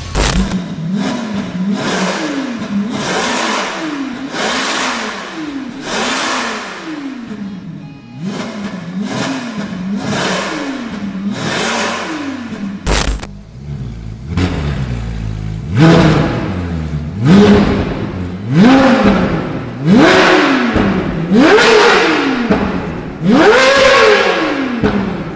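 Ferrari 458 Italia's V8 through an iPE F1 exhaust system, revved again and again, each rev rising and falling quickly. After a short break and a sharp crack about halfway, the revs are louder and climb higher, coming about every one and a half seconds.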